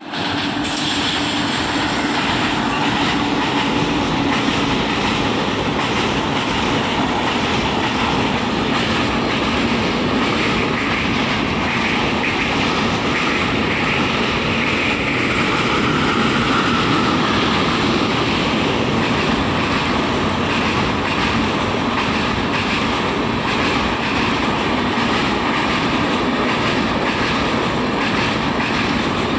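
Express train running over a steel girder bridge: continuous heavy rumble and clatter of wheels on the rails.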